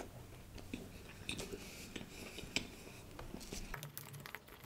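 Faint close-miked chewing of a bite of brownie, with soft scattered mouth clicks.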